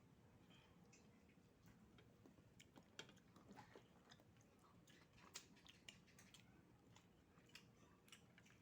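Faint chewing of raw oysters, with scattered light clicks at irregular intervals over a low background hum.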